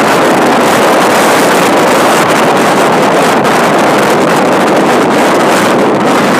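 Strong wind blowing across the microphone, a loud steady rushing noise.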